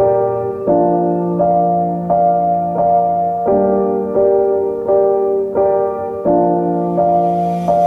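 Background piano music: soft sustained notes and chords, a new one struck about every 0.7 s in an even, slow rhythm.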